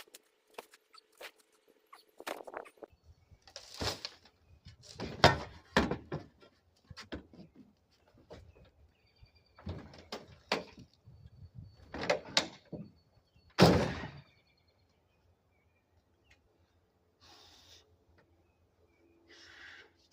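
Someone rummaging through gear, shifting and dropping things: a series of thunks and bangs, about seven strong knocks over roughly ten seconds with lighter clatter between, then it goes mostly quiet.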